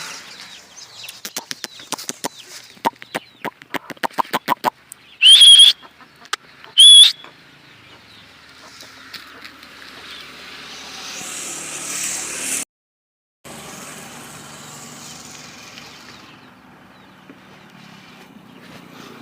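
Chickens: a quick run of short clucks, then two very loud, sharp high squawks about five and seven seconds in. A steady hiss follows that drops out briefly midway.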